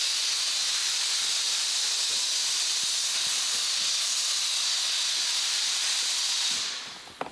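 Steady spray hiss of panel-prep cleaner being misted onto car paint. It fades out near the end, followed by a sharp click.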